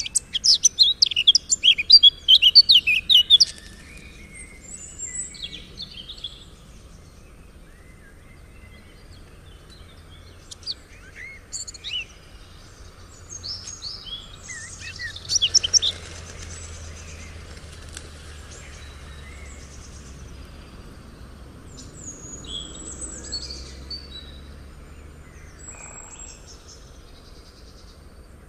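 Birds chirping and singing: a loud, rapid run of chirps in the first few seconds and another burst about fifteen seconds in, with scattered short calls in between. A faint low rumble sits underneath throughout.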